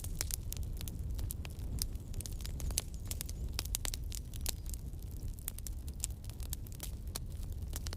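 Campfire burning: the wood crackles with many irregular sharp pops over a low, steady rumble of the flames.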